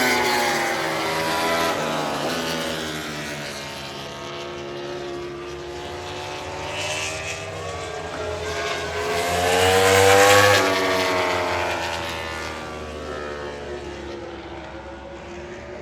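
MotoGP racing motorcycles passing at speed. One engine fades away at the start, and a second approaches, is loudest about ten seconds in, then drops in pitch as it goes by and fades.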